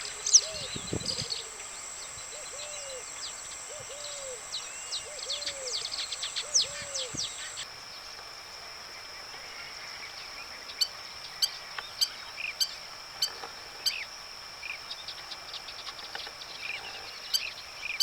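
Forest ambience of a steady high insect drone with many bird chirps and calls over it. In the first part a low hooting call repeats about six times; after a sudden change about eight seconds in, sharp high chirps come roughly one every half second.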